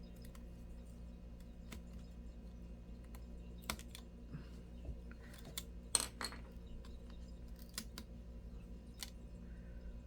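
Faint, scattered clicks and taps of small laptop parts and tools being handled during disassembly, with a louder pair of clicks about six seconds in.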